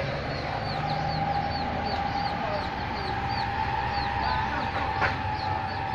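Outdoor ambience with a bird's short, high, falling peeps repeated evenly about three times a second, over a steady mid-pitched tone and a low rumble.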